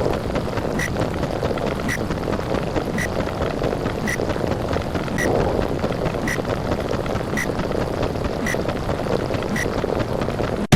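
Underwater ambience sound effect: a steady, muffled, noisy rumble, with a short high tick about once a second.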